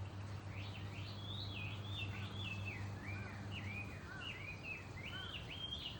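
A wild songbird singing a long, rapid run of high sliding chirps and warbled notes. A steady low hum runs underneath and stops about two-thirds of the way through.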